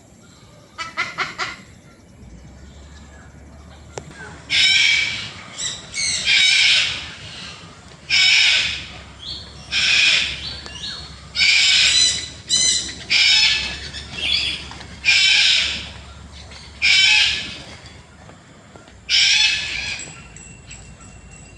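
Birds in a bird park aviary giving loud, harsh squawks, about a dozen calls of under a second each, coming in quick succession, with a short rattle of clicks near the start.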